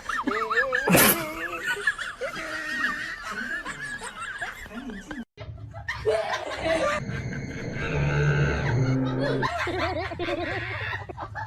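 People laughing and chuckling, with a sudden break about five seconds in and a steady low hum under the laughter after it.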